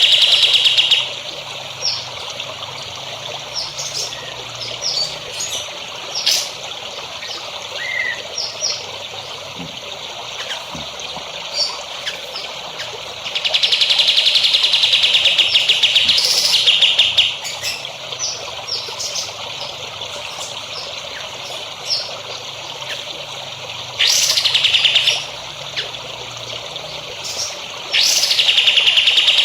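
A songbird repeating long, fast buzzy trills, with short chirps scattered between them, over steadily trickling water. The trills come near the start, for about four seconds in the middle, and twice near the end.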